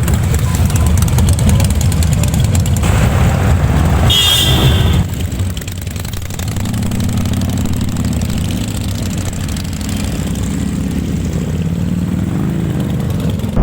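Motorcycle engines running, loud for the first five seconds and then a steadier, quieter engine drone that slowly rises in pitch as the bike pulls away. A brief high tone sounds about four seconds in.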